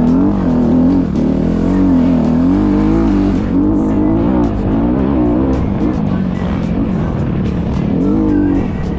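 Dirt bike engine revving up and down repeatedly, its pitch rising and falling every second or so.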